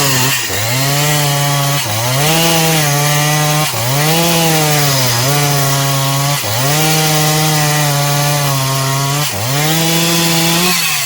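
Two-stroke chainsaw running at full throttle through eucalyptus wood. Its pitch drops sharply and picks back up about six times as the chain bites into the cut.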